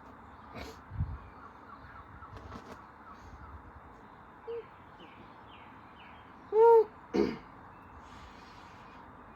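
A crow-like bird caws twice, loudly, about two-thirds of the way through, over faint chirping of small birds and a low background rumble. A dull thump comes about a second in.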